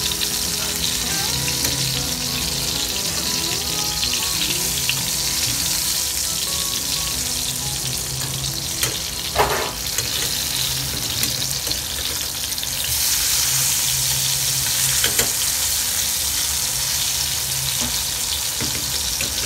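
Tomato halves sizzling in butter in a frying pan over a low gas flame, a steady hiss that grows louder about two-thirds of the way in. About halfway through comes a brief scrape of metal tongs in the pan.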